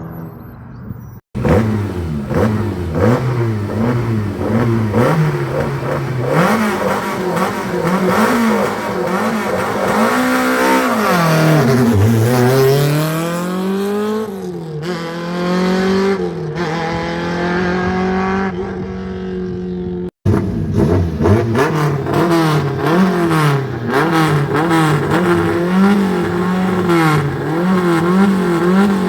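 Rally car engines revving hard, the pitch jumping up and down every second or so with throttle lifts and gear changes. About halfway through, one engine drops low in pitch and then climbs again. The sound cuts off abruptly twice, switching to another car each time.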